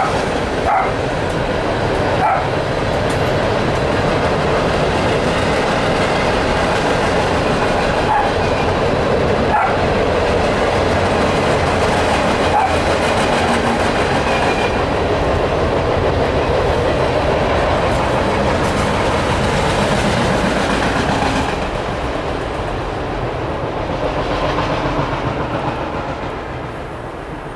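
Freight train cars rolling steadily past, with a dog barking several times during the first half. The rolling noise falls away over the last few seconds as the end of the train goes by.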